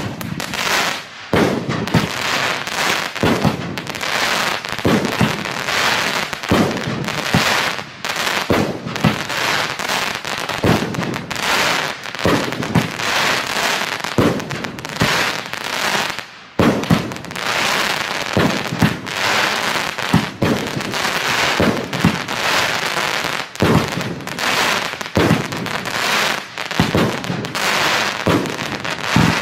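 Funke Duplex-Cracker Rain 20-shot firework battery firing: a launch thump about every second or so, each followed by dense crackling. It starts suddenly and runs on with only a brief lull about halfway.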